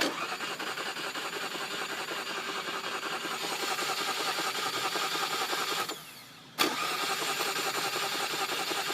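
1995 Mazda MX-3's 1.8-litre V6 cranking on the starter without firing, in two tries: a crank of about six seconds, a short pause, then a second crank of about two and a half seconds. The engine never catches: a no-start with a new cap, rotor and plugs fitted.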